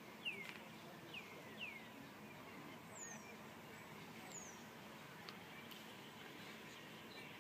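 Faint chirps from small birds, each a short downward slide in pitch: three in the first two seconds, then two thinner, higher ones around the middle, over a low steady background hiss.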